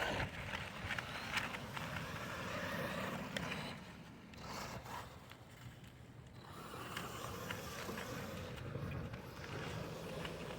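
Radio-controlled monster trucks running over pavement and ramps, with tyre and chassis scraping and a few sharp knocks. The noise drops away about four seconds in and picks up again a couple of seconds later.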